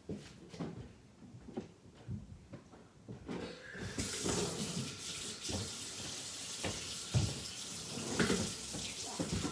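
Kitchen tap turned on about four seconds in and running steadily, with a few knocks and clinks around the sink.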